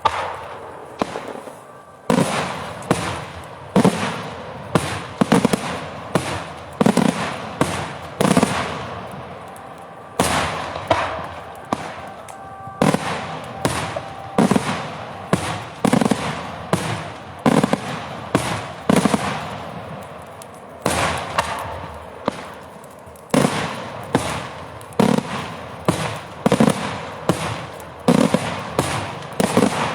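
Daytime fireworks going off in a fast run of sharp bangs, about two a second, each with a short echoing tail, with brief lulls twice.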